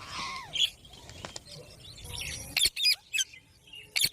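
Green parrot calling: short, shrill squawks and chirps with quick falling sweeps, a longer call at the start, then several quick calls in the second half.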